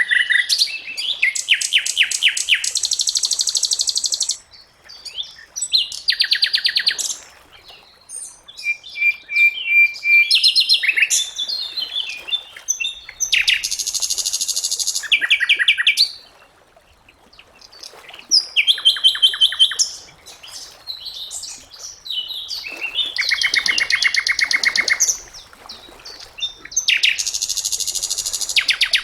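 Sikatan londo, a small flycatcher, singing: bursts of rapid, high trills and quick note series, each lasting one to four seconds, with short pauses between them.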